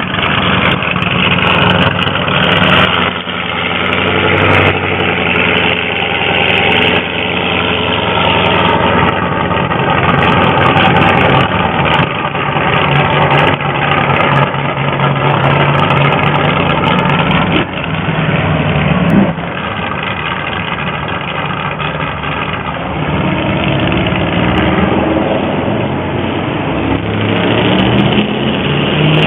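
Paxton-supercharged V8 of a 1964 Studebaker Daytona R3 running as the car is driven off, the engine note rising and falling with the throttle.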